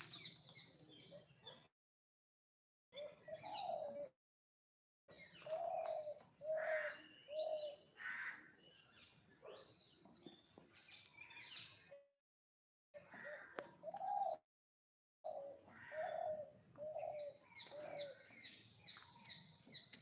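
Outdoor birdsong: a low call repeated in runs of three or four notes, with scattered higher chirps over it. The sound cuts out to dead silence several times.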